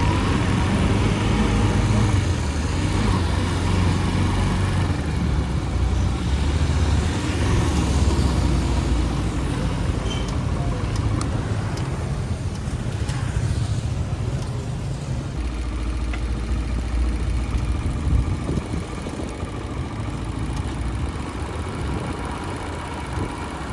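Motorcycle engine running on the move, its pitch shifting as speed changes, with street traffic and road noise around it.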